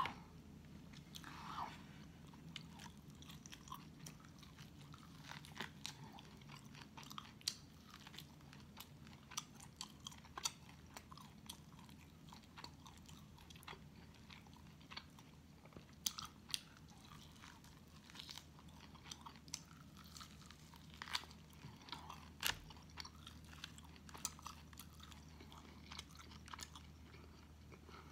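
Close-miked chewing and biting of baked pork loin: many short, sharp mouth clicks and smacks at an irregular pace, over a faint steady low hum.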